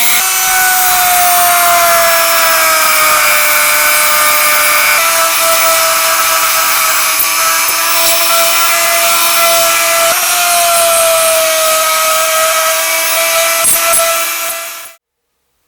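Electric power tool running under load: a steady motor whine over a loud grinding hiss. The whine sags slightly in pitch and shifts a couple of times, and everything cuts off abruptly near the end.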